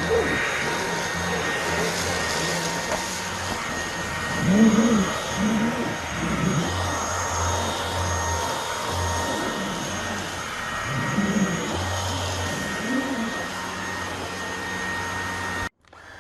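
LEVOIT VortexIQ 40 cordless vacuum running: a steady high whine over a rushing airflow, with a few brief lower swells in tone. The sound cuts off abruptly near the end.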